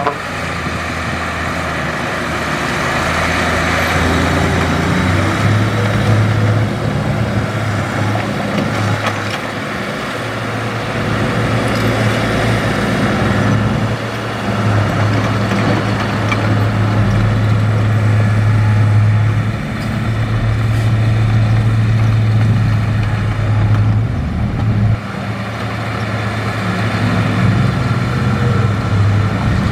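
Heavy earthmoving diesel engine running steadily with a low drone. Its load and pitch shift, dipping briefly several times and picking up again, as on a working machine.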